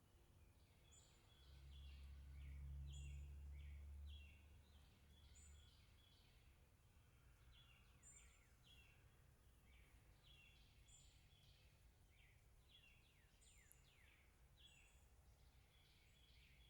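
Faint, repeated bird calls: short high chirping phrases coming about every second or so. A low rumble from about one and a half to five and a half seconds in is the loudest sound.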